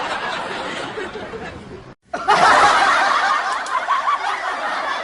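People laughing: one laughter clip fades out to a brief silence at about two seconds, then another, louder burst of laughter starts and carries on.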